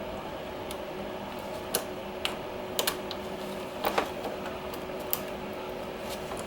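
Scattered light metallic clicks and taps from a wrench and fittings as a brake-line banjo bolt with its crush washer is threaded in and tightened, about a dozen at irregular intervals.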